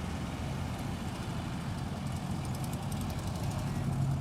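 Car engine running with a steady low rumble, growing slightly louder near the end.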